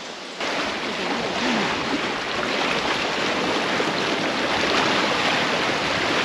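Loud, steady rush of flowing water, like a river running over rapids, cutting in suddenly about half a second in.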